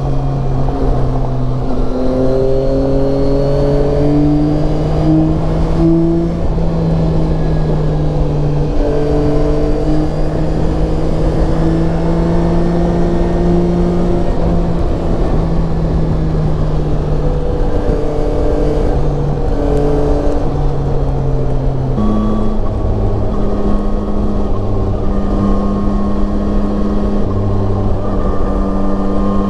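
Yamaha Tracer 9's three-cylinder engine running under way, heard from the moving motorcycle with wind noise. The engine note drifts up and down with the throttle, and its pitch steps up sharply about two-thirds of the way through.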